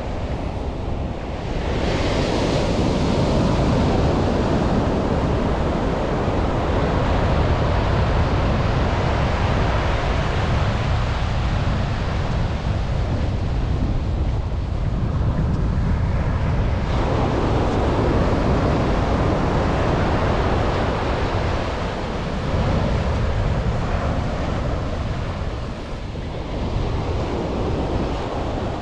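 Atlantic surf breaking and washing up a sandy beach, with waves surging about two seconds in and again past the midpoint. Wind buffets the microphone throughout, adding a low rumble.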